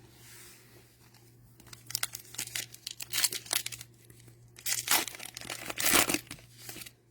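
Cellophane wrapper of a Mosaic football card cello pack being torn open and crinkled, in two spells of crackling, the second the louder.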